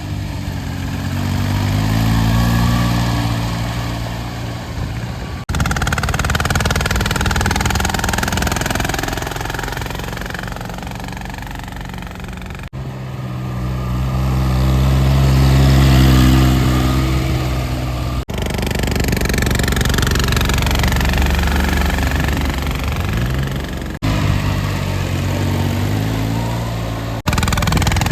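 Small diesel tractor engine running, its pitch rising and falling as it revs up and down, with several abrupt cuts.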